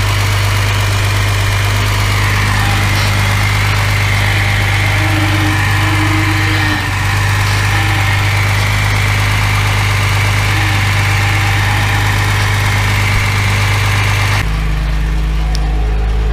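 Freshly rebuilt Mercedes W114 engine running steadily at a fast idle after its first start. Near the end the sound changes suddenly and becomes deeper.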